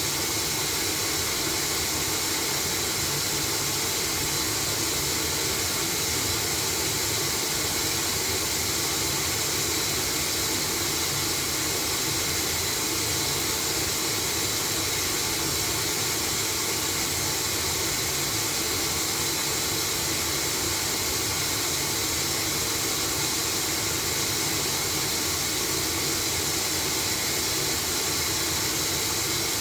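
LG washing machine running with a steady, even hiss that holds unchanged throughout.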